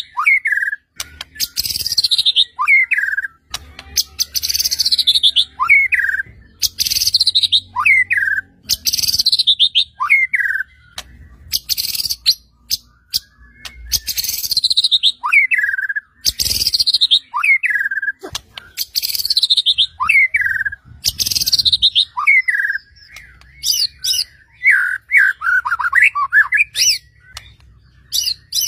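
White-rumped shama (murai batu) singing loudly, repeating one clear phrase about every two seconds: a high whistle sweeping downward, then a lower slurred note. Near the end it breaks into a quick run of notes bending up and down.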